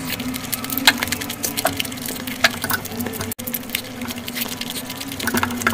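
Close-miked eating sounds: wet chewing and lip smacks as chicken biryani is eaten by hand, with fingers squishing through the rice, heard as many sharp clicks over a steady low hum. The sound cuts out for a moment a little past halfway.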